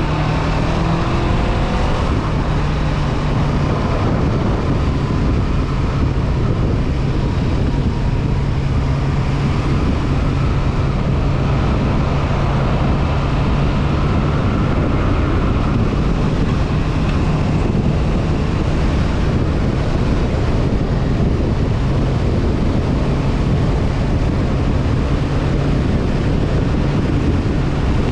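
Honda CB500F's parallel-twin engine finishing a rise in revs in the first second or two, then running at a steady cruise, with wind rushing over the microphone.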